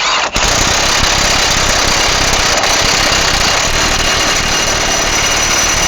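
Impact wrench hammering steadily as it runs the axle nut down onto the new wheel hub assembly. It starts about a third of a second in, with a thin high whine over the hammering.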